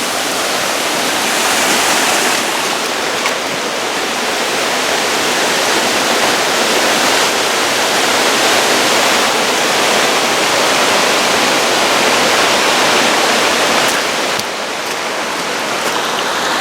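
Waterfall and its stream of water pouring: a loud, steady rush of falling water.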